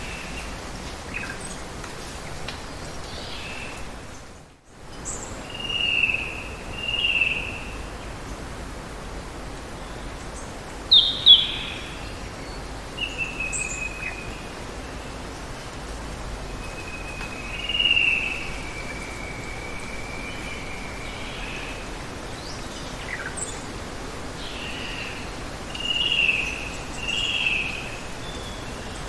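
Rainforest ambience: a steady hiss of water with birds chirping now and then, several short calls and one longer drawn-out call. The background cuts out for a moment a little over four seconds in.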